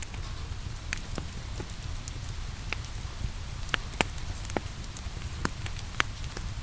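Wood fire crackling, with scattered sharp pops at an irregular pace, over steady rain and a low rumble.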